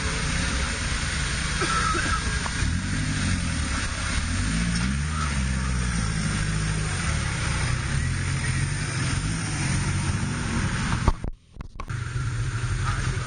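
Jeep Wrangler's engine revving up and down in repeated waves as it spins its mud-caked tyres trying to climb out of deep mud. About 11 seconds in it cuts off abruptly, and then another engine idles steadily.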